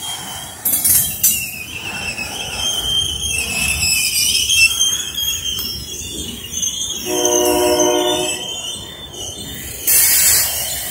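Freight train cars rolling past a grade crossing, with the steel wheels squealing in high, wavering tones. About seven seconds in, a horn sounds once for just over a second. Two brief loud rushes of noise come just under a second in and near the end.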